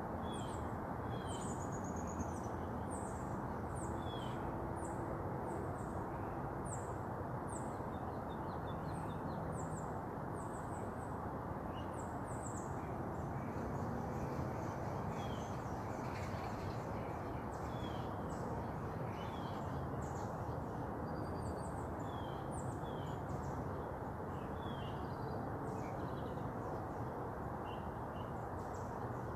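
Small birds chirping with many short, quick, high notes, scattered throughout, over a steady background hiss.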